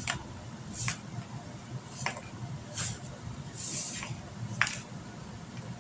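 A utensil scraping through flour and shortening in a mixing bowl, cutting the shortening in until it looks like breadcrumbs: short scraping strokes about once a second, with a longer swish near the middle, over a low steady hum.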